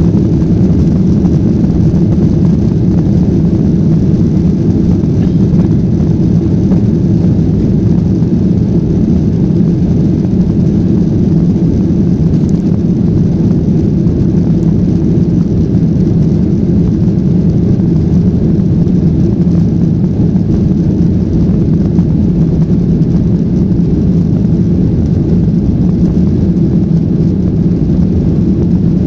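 Jet airliner engines and airflow heard from inside the passenger cabin during take-off and climb: a loud, steady, low-pitched noise with no change.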